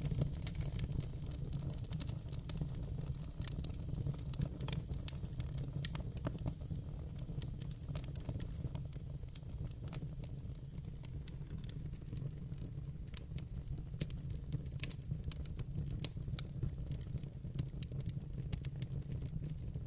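Wood fire burning in a fireplace: a steady low rumble with scattered crackles and pops throughout.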